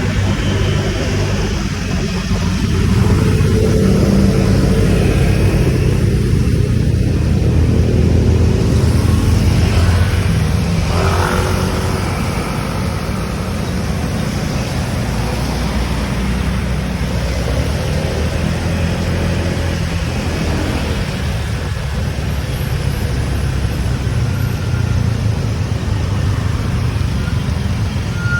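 Motorcycle riding on a road: a steady engine and road rumble throughout, with a short rising tone about eleven seconds in.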